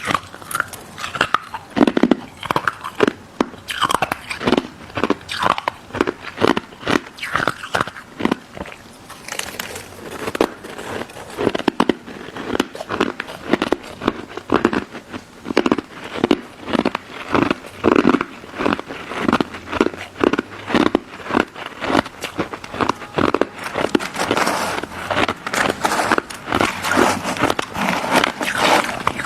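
Close-up crunching and chewing of a crisp pink crystal snow ice dessert: a steady run of sharp crunches, several a second, denser near the end.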